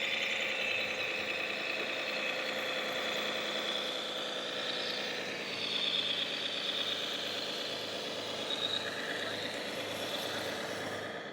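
Radio-controlled model truck or construction machine running, with a steady engine-like pulsing drone and a whine that drifts slightly lower in pitch.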